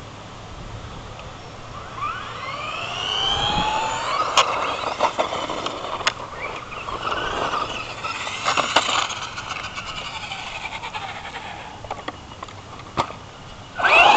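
Electric motor and drivetrain of a Traxxas Slash RC truck whining. The pitch climbs as it accelerates about two seconds in, then rises and falls with the throttle, with a few sharp knocks along the way and a loud burst of whine near the end.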